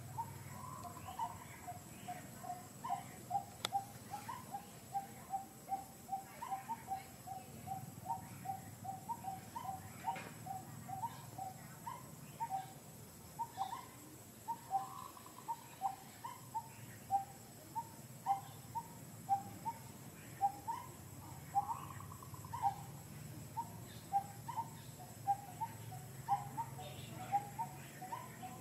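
A bird calling a fast, even series of short clear notes, about three a second, some with a rising hook, over a low steady background hum.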